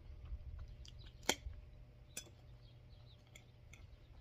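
A person chewing a bite of waffle: a few faint, sharp mouth clicks, the loudest about a second in, over a low steady background hum.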